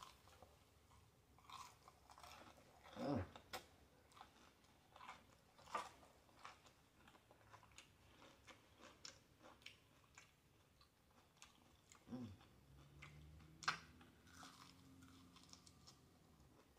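Close-miked chewing of crispy fried chicken: wet mouth clicks and smacking with occasional crunches of the breading, and a low hum of the voice in the last few seconds.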